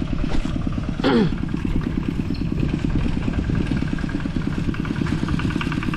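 Small engine running steadily with a rapid, even beat. A brief falling tone comes about a second in.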